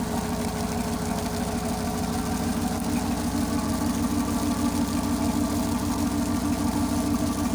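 Tugboat engine running steadily at a constant speed, a continuous low drone.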